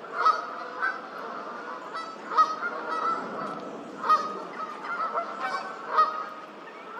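Geese honking repeatedly on the water, a series of short calls with the loudest coming every second or two.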